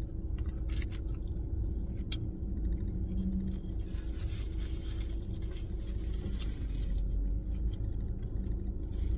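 A person chewing a bite of burger, with a few soft mouth clicks, over the steady low rumble of a car cabin. A brief rustle comes about halfway through.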